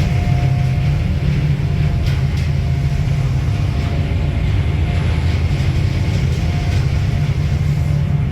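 Ferry's engines running with a steady low drone, heard on board.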